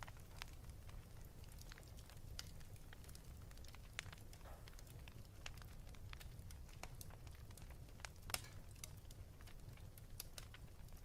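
Wood fire burning in a fireplace, crackling with scattered sharp pops over a low, steady rumble; the loudest pop comes about eight seconds in.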